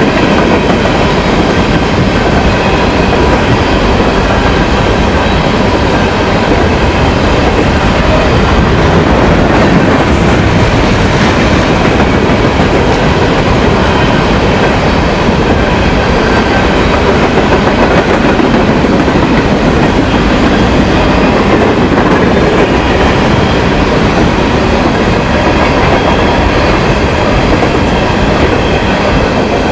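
A train's railroad cars rolling past, their wheels clattering over the rail in a steady, loud rumble that lasts throughout.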